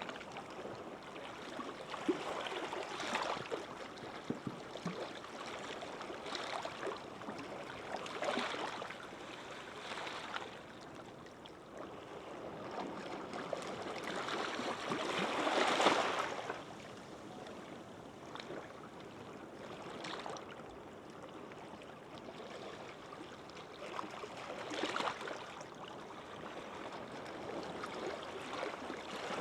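Calm sea waves washing onto the shore: a steady hiss of surf that swells and fades every few seconds as each small wave breaks, the biggest one about halfway through.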